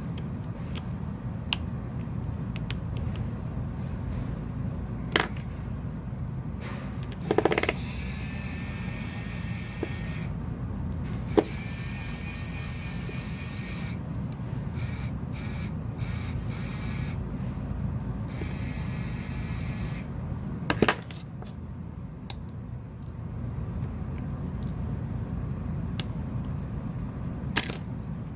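Scattered light clicks and taps of small tools working on a phone's screws and internal parts, over a steady low hum, with a couple of stretches of brief whirring.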